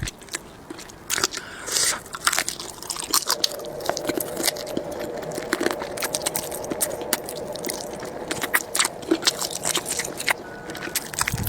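Close-up eating sounds of someone gnawing on marinated chicken feet: irregular crunches and sharp wet clicks as the teeth work through skin and cartilage.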